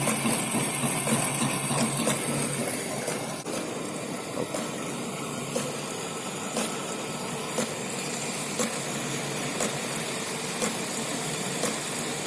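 Centre lathe running steadily in the machine shop, with a faint regular tick about once a second.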